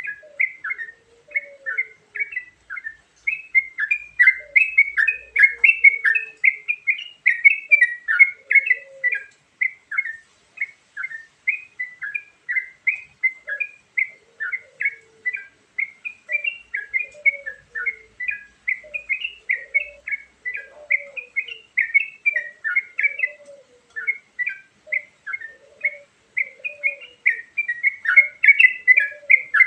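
Yellow-vented bulbul (trucukan) song as a lure recording: a continuous, rapid run of chattering chirps, with lower gliding notes mixed in at intervals.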